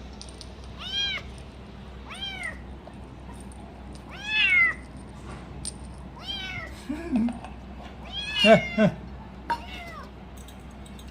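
A kitten meowing repeatedly: about six short calls, each rising and falling in pitch, spaced a second or two apart, with the loudest near the end.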